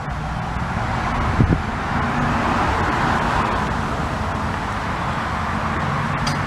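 Steady noise of passing road traffic, with a single short low knock about a second and a half in.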